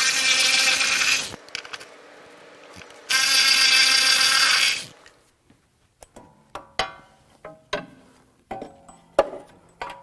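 Power tool run in two bursts, about a second and a half and then about two seconds, loosening bolts; then a series of light metal clicks and clinks from parts and tools being handled.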